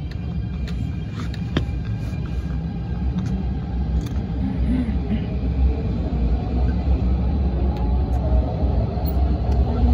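MTR Tung Chung line CAF train pulling out of the station and picking up speed, heard from inside the car. A low rumble of wheels and traction motors grows steadily louder.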